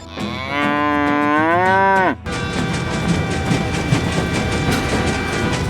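A cow mooing: one long call of about two seconds that rises in pitch and drops at the end. It cuts off suddenly and gives way to a steady clattering mechanical running noise.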